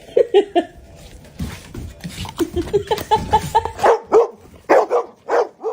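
A dog barking in short, high yips: three close together near the start, then a quicker run of them from about two and a half seconds in.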